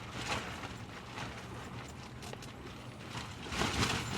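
Spoon or fork stirring food in a bowl, giving irregular light clicks and scrapes, with a rise in rushing noise near the end.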